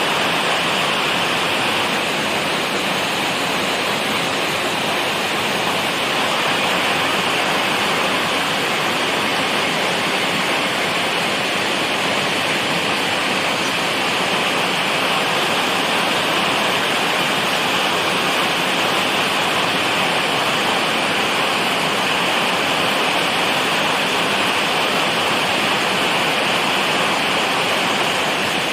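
Heavy rain falling steadily, a dense, even hiss of water with no single drops or breaks standing out.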